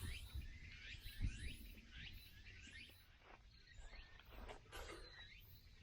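Small birds chirping with short falling calls, with a soft low thump about a second in and a few faint clicks later.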